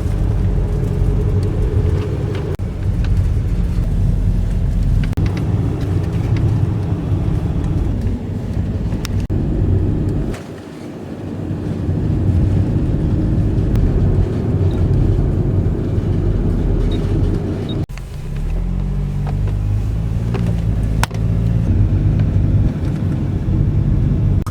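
A car driving, its engine and road noise steady, with the engine pitch shifting as it changes speed. The sound drops briefly about ten seconds in and again near eighteen seconds.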